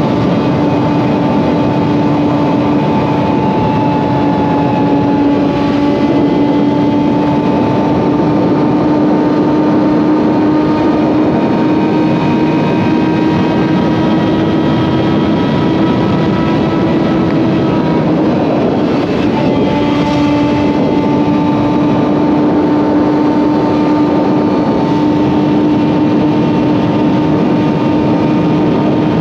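Suzuki GSX-R750's inline-four engine through an M4 slip-on exhaust, cruising at steady high revs under wind noise. Its pitch climbs slowly, drops out briefly about two-thirds of the way through, then carries on.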